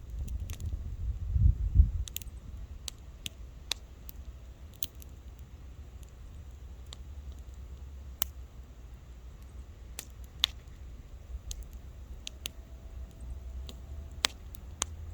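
Wood fire crackling, with irregular sharp pops about once or twice a second over a low rumble that swells briefly about a second and a half in.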